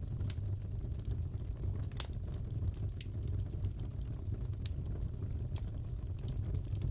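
Crackling fireplace: a steady low rumble of the burning fire with scattered sharp pops and crackles, the loudest about two seconds in.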